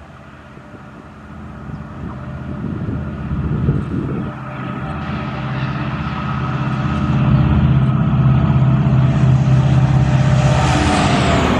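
EMD diesel locomotive (Indian Railways WDP4/WDG4 type) approaching: a steady engine drone that grows steadily louder. Near the end its pitch drops as it passes by, with rising wheel and rail noise.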